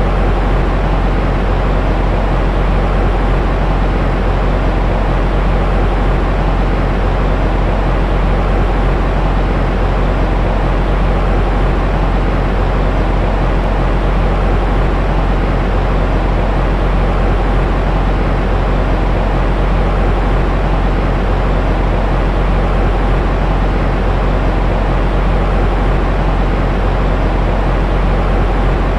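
Steady baby-soothing white noise, weighted toward the low end so it sounds like a deep, even rumbling hiss, with no change in level or pitch.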